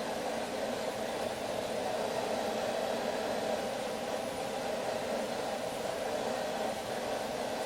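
Steady rushing of air from a forge running, with no hammer strikes.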